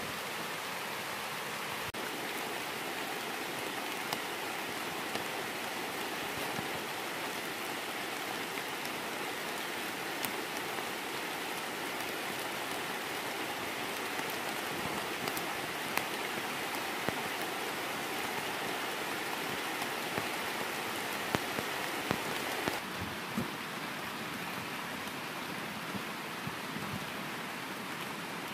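Steady rain falling, an even hiss with scattered small taps and clicks, softening slightly near the end.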